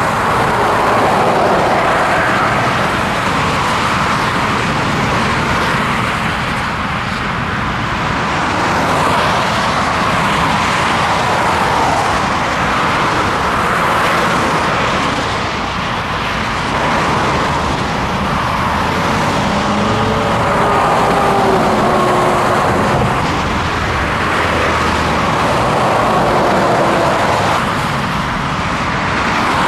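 Scania heavy vehicle driving on the road: steady engine and road noise, with faint whistling tones about twenty seconds in.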